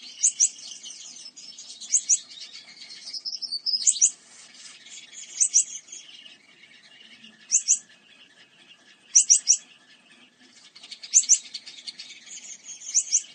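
Birds chirping: short, sharp, very high notes in quick pairs or triplets every second or two, over a continuous high twittering chatter.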